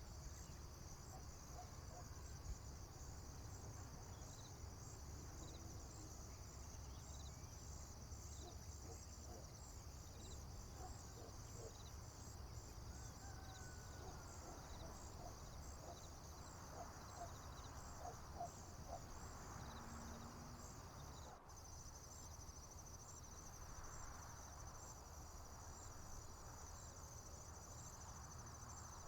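A faint, steady chorus of crickets and other insects chirping high and in a regular pulse, over a low steady rumble. A few faint bird calls come through midway. About three-quarters of the way through, the chorus breaks off abruptly and goes on as a faster, even trill.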